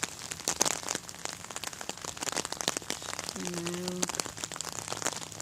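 Heavy rain falling, a steady hiss dense with sharp, close drop clicks. A brief low steady tone sounds for under a second about three and a half seconds in.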